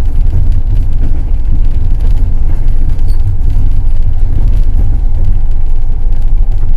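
Passenger train running along the track, a steady heavy low rumble of the carriage and its wheels on the rails.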